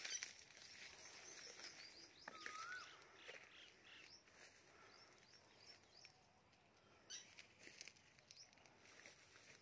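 Faint outdoor birdsong: scattered quick high chirps, with one short whistled note that rises then drops about two and a half seconds in.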